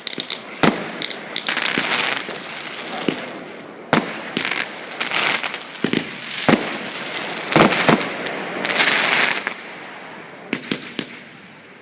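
New Year's Eve fireworks: irregular sharp bangs mixed with longer stretches of crackling, thinning out to a few small cracks near the end.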